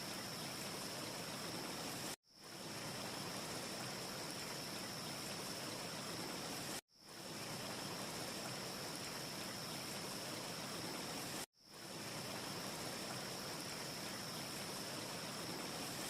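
Steady, even hiss of a wind ambience track with a faint thin high whine in it. It cuts out abruptly three times, about every four and a half seconds, and fades back in quickly each time, like the seam of a short loop.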